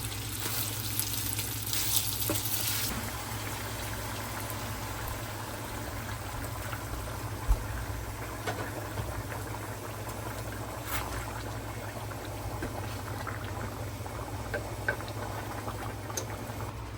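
A pot of vegetables and meat cooking on the stove, bubbling and hissing steadily, with a few light clicks and a low steady hum underneath. The hiss is brighter for the first few seconds.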